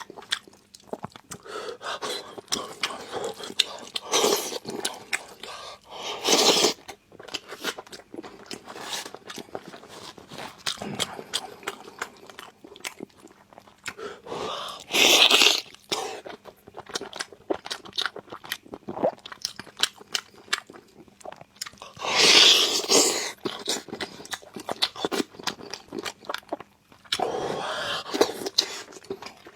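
Close-miked chewing and biting of braised pork knuckle skin and meat: a steady run of wet mouth clicks and smacks, with a handful of louder bursts spread through.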